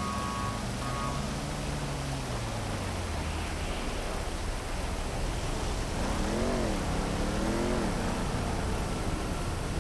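Steady heavy rain over city traffic: a car passes early on with its engine note falling away, and about six seconds in a vehicle's engine revs up and down twice.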